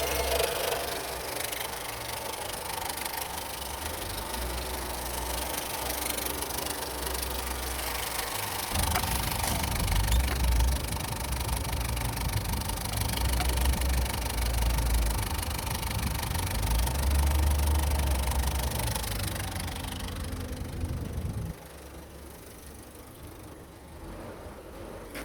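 Opel Meriva's Z14XEP 1.4-litre four-cylinder petrol engine running during an engine test. It gets louder about a third of the way in and cuts off abruptly near the end as it is switched off.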